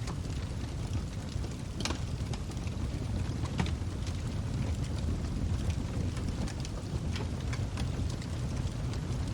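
Log fire burning: a steady low rumble of the flames with scattered crackles and pops from the burning wood. The sharpest pops come about two seconds and three and a half seconds in.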